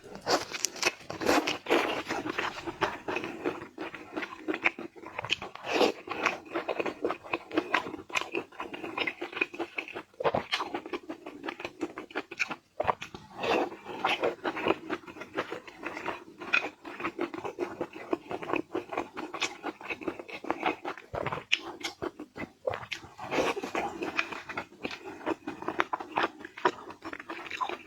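A person biting and chewing crunchy seafood: a dense, continuous run of crunches and crackles.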